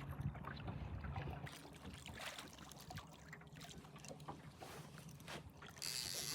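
Scattered knocks and clicks of handling in a small jon boat over a low steady hum, with a short loud hiss near the end.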